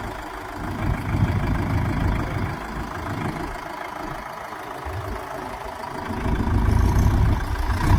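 Mahindra diesel tractor engine running, getting louder about six seconds in.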